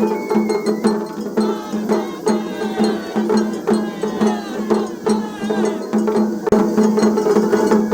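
Japanese festival ohayashi from a float's music band: a hand gong (kane) struck in a quick, steady beat together with drums.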